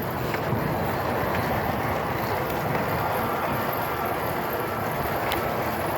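Steady rushing noise of riding an e-bike: wind and tyre noise at an even level, with a couple of faint clicks near the end.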